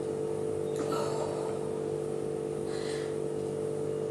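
Two short breaths, about a second in and again near three seconds, from a person working through slow squats, over a steady hum.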